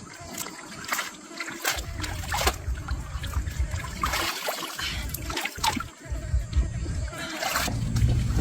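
Water splashing and trickling, with a series of sharp knocks.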